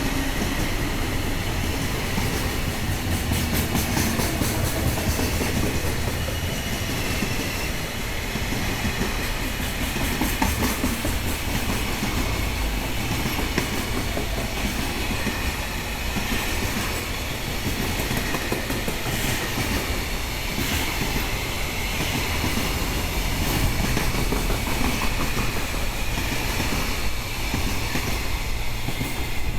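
Freight train running past, a continuous steady rumble of wagon wheels on the rails with some clicking from the wheels.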